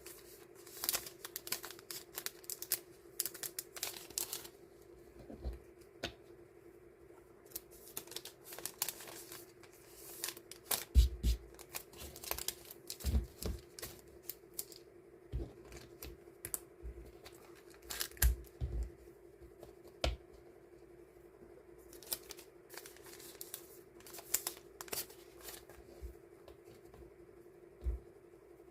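Die-cut stickers and their plastic packing sleeves being handled and sorted by hand: intermittent rustling, crinkling and light taps, over a steady low hum.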